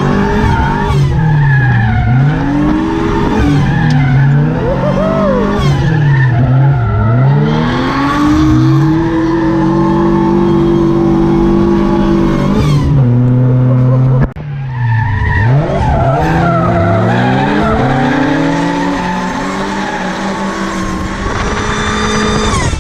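Supercharged Volvo B230 inline-four (red block) engine revving hard and dropping again and again while the car drifts, with a brief lift about two-thirds of the way through and the tyres skidding at times.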